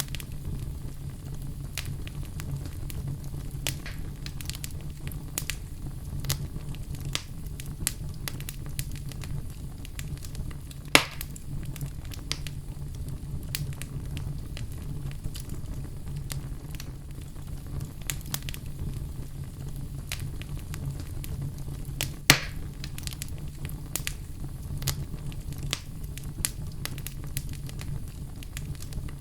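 Fireplace wood fire crackling with a steady low rumble and frequent small snaps. Two louder pops stand out, about eleven seconds in and again about twenty-two seconds in.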